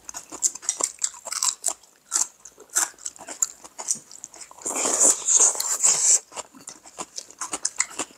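Close-miked eating sounds: wet chewing and crisp crunching of raw leaf wraps with rice, full of short mouth clicks. The loudest crunching comes about five seconds in and lasts over a second.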